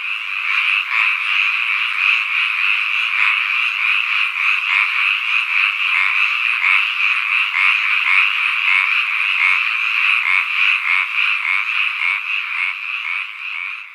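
Chorus of many frogs calling at once, a dense overlapping mass of rapid pulsed calls, beginning to fade near the end.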